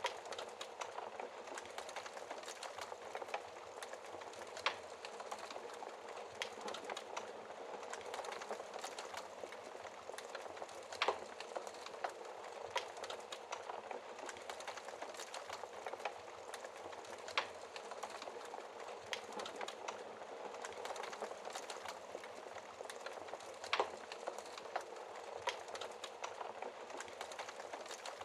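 Wood fire burning in a fireplace, crackling steadily with a dense patter of small snaps and a handful of sharper, louder pops scattered every few seconds.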